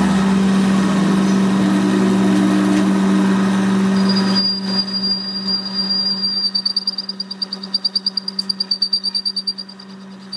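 Workshop machine running with a loud steady hum that drops away about four and a half seconds in, then a high whine with a fast even pulsing, about five beats a second.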